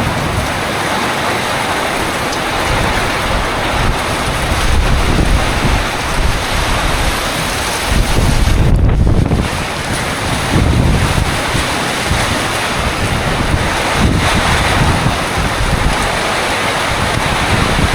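Tropical storm wind buffeting the microphone in uneven gusts, over a steady, dense hiss of wind and rain.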